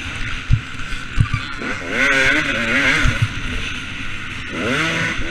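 Two-stroke motocross bike engine, a KTM 250 SX, revving hard, its pitch climbing and falling as the throttle is worked and then climbing again near the end. Wind rush and several dull thumps run under it.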